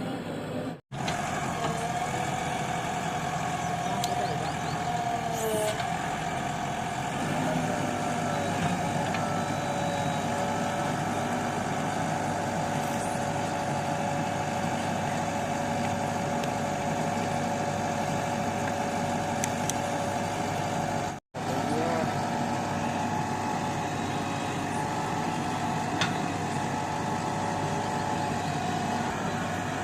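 Construction machine's engine running steadily, with a held whine over the drone. The sound drops out for an instant twice, about a second in and again about 21 seconds in.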